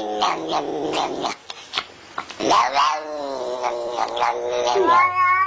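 An animal screaming in long, wavering pitched calls, with a short lull about halfway through and a few sharp clicks in the first half.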